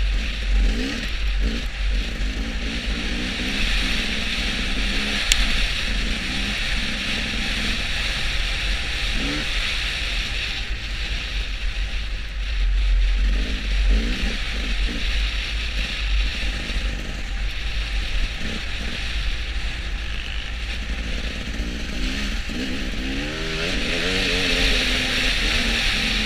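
Road vehicle's engine running while under way, its pitch rising and falling several times, over a heavy low wind rumble and road hiss.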